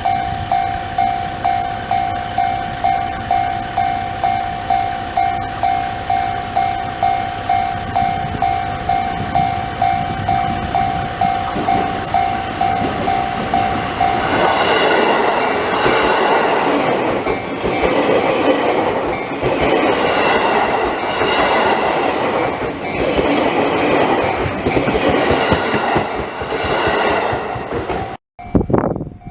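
Japanese railway level-crossing alarm bell dinging steadily, about two strikes a second. About halfway through a train passes close by, its wheels clacking over the rail joints and covering the bell.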